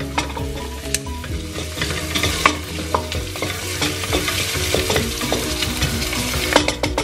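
Sliced onion, garlic and ginger sizzling in hot oil in a stainless steel pot while a wooden spoon stirs them, with irregular light knocks of the spoon against the pot.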